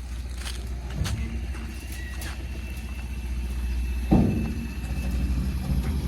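JCB 3DX backhoe loader's diesel engine running steadily, with a thin high whine over it, and one heavy clunk about four seconds in.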